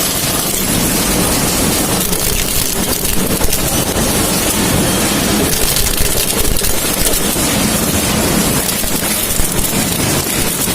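Coconut shell-separating machine running with a steady, noisy mechanical sound and scattered small clicks.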